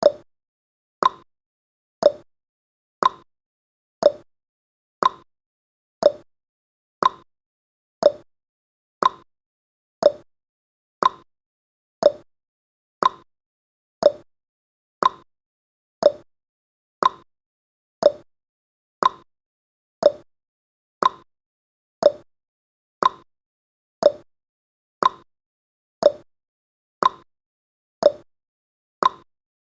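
Countdown timer's tick sound effect: one short, sharp tick each second, evenly spaced, with silence between.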